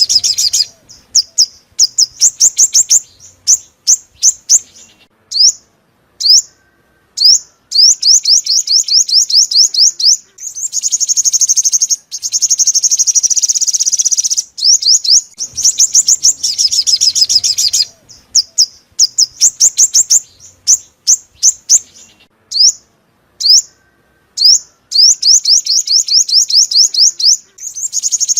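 Sunbird song played as a trapping lure: loud, rapid high-pitched chirping trills and single sharp notes, broken by a longer buzzy, rattling passage. The same sequence repeats about halfway through, as a looped recording.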